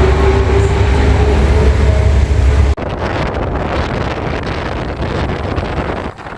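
Car engine running steadily, loud, with a deep rumble and a steady hum; it cuts off abruptly a little under three seconds in, giving way to wind on the microphone over a quieter rumble.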